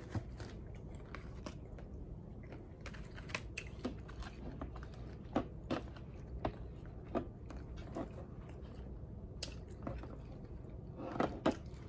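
A person chewing wonton dumplings close to the microphone: faint, irregular wet mouth clicks, a few more together near the end, over a low steady background hum.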